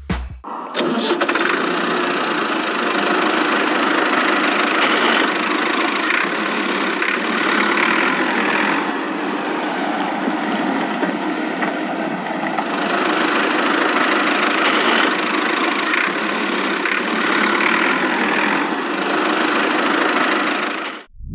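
A small motor running steadily, with a mechanical engine-like sound that starts abruptly and cuts off suddenly near the end.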